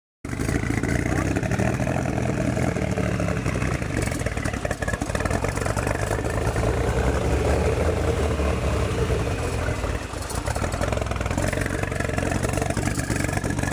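1999 Lotus Esprit's 3.5-litre twin-turbo V8 idling roughly just after a cold start, its note uneven and wavering, with a brief dip in level about ten seconds in.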